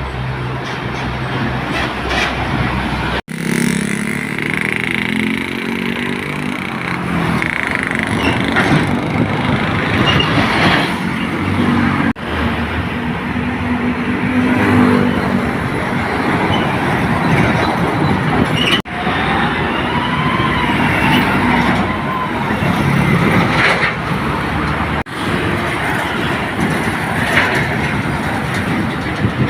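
Box trucks driving past on a road, their engines running over steady traffic noise, with pitch rising as engines rev. The sound changes abruptly four times as one passing truck cuts to the next.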